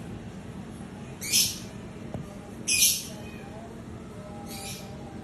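Asian golden cat hissing: three short, sharp hisses about a second and a half apart, the middle one loudest.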